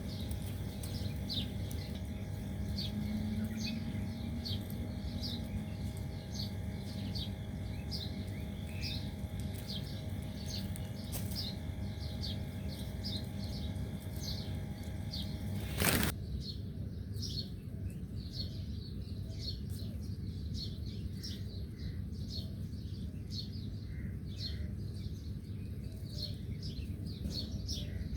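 A small bird chirping over and over, short high chirps at about three every two seconds. About halfway through, a sharp click and a change in the background noise, as at a cut, while the chirping carries on.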